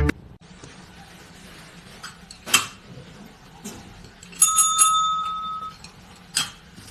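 A small metal bell struck once, about halfway through, ringing with a clear high tone that fades over about a second and a half, with a couple of light taps or clicks around it.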